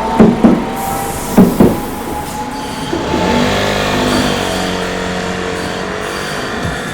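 Tokyu Setagaya Line train at a level crossing: its wheels clack over rail joints in two quick pairs during the first two seconds, then its motors give a steady whine of several held tones.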